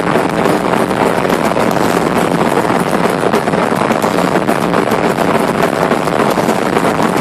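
Thrash metal band playing live at full volume: distorted guitars and drums so overloaded on a cell phone's microphone that they blur into a steady, dense wall of noise.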